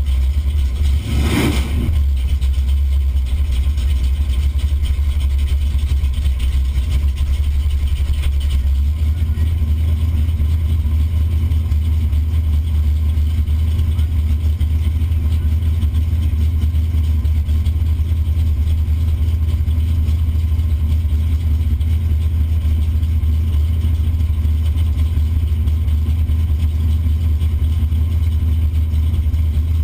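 Pontiac 455 V8 idling steadily in the stationary Buick wagon, heard from inside the cabin as a deep, loud low rumble. A short noisy burst comes about a second in, and the idle's tone shifts a little about nine seconds in.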